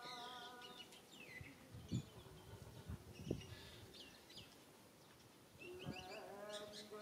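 Small birds chirping in short, quick falling notes, with two dull thumps about two and three seconds in and a held, wavering pitched call starting near the end.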